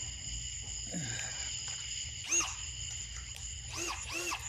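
Steady high-pitched chirring of insects, with three short squeaky calls that rise and fall in pitch in the second half.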